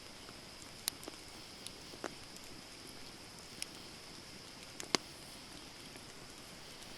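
Wood campfire burning: scattered sharp crackles and pops over a steady soft hiss, the loudest pop about five seconds in.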